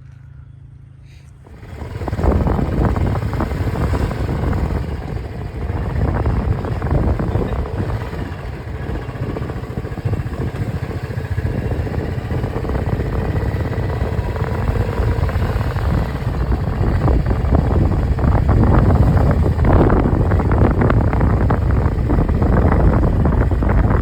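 A motorcycle's engine idles low for about the first second and a half, then the bike pulls away and rides on. The engine runs under heavy wind rumble on the microphone, growing a little louder toward the end.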